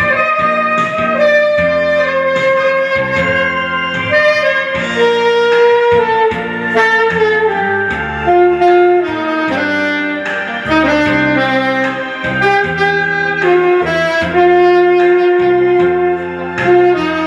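Saxophone playing a slow melody in long held, gliding notes over band accompaniment with a steady bass line.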